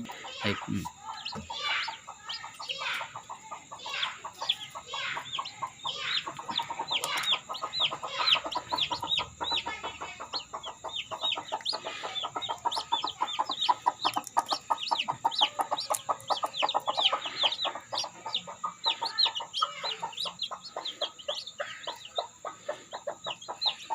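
Newly hatched parrot-beak chicks peeping in short high falling chirps, with the broody mother hen clucking in long rapid runs through the middle.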